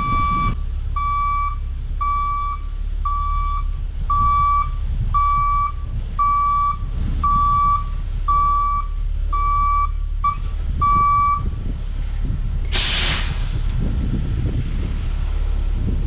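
Septic-tank delivery truck reversing: its backup alarm beeps about once a second over the engine running. The beeping stops about two-thirds of the way in, and shortly after comes one short, loud hiss of air brakes being set as the truck halts.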